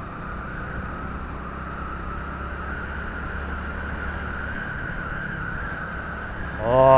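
A steady low mechanical hum under an even hiss, like a running engine. Near the end a loud pitched tone with many overtones comes in, rising briefly and then holding steady.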